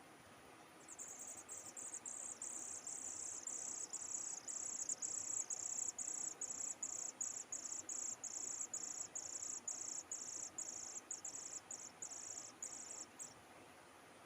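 An insect calling: a high-pitched, evenly pulsed buzz, about two to three pulses a second. It starts about a second in and stops shortly before the end.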